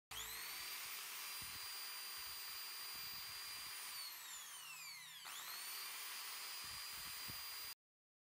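Makita HP1500 hammer drill running with no load, its motor whine climbing to a steady high pitch. About four seconds in it winds down in pitch, then spins straight back up and cuts off suddenly near the end.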